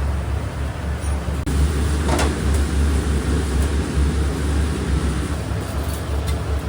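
Restaurant kitchen background noise: a steady low mechanical hum, with a short clink about two seconds in.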